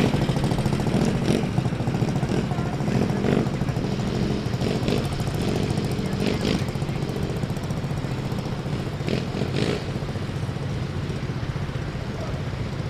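Triumph trials motorcycle engine running steadily at low revs as the bike is ridden slowly past, fading slightly.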